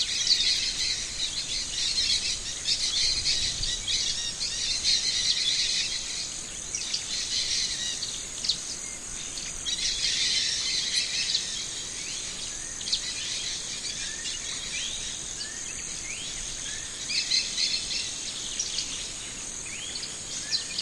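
Birds chirping in quick repeated series over a steady high insect trill.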